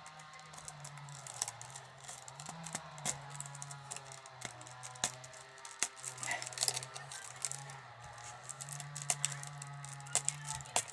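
Wicker being woven by hand: bird cherry rods clicking, creaking and crackling as they are pushed through and bent around the basket's stakes. A low steady hum runs underneath.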